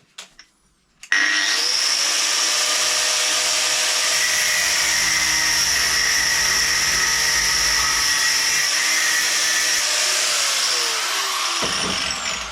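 Angle grinder with a cutting disc switched on about a second in and running steadily at full speed while cutting through a threaded bolt held in a vise. Near the end it is switched off and winds down with a falling whine.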